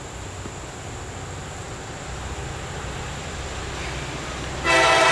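Low rumble of an approaching Norfolk Southern freight train led by an SD40E diesel locomotive, slowly growing louder. Near the end the locomotive's horn starts suddenly, loud and steady.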